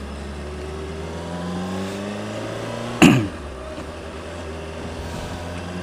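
Honda CBR600RR's inline-four engine running under way, its pitch rising gently over the first two seconds and then holding steady. About three seconds in, a brief loud sound with a quickly falling pitch cuts across it.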